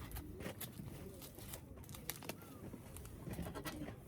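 Scattered light clicks and knocks, with a short bird call about two seconds in.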